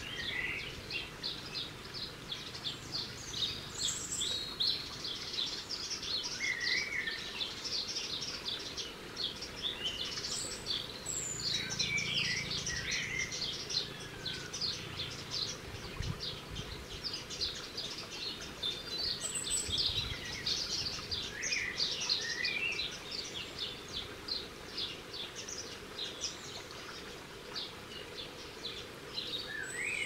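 Small garden birds chirping: a dense run of short, high calls throughout, with a few lower sliding whistled notes here and there.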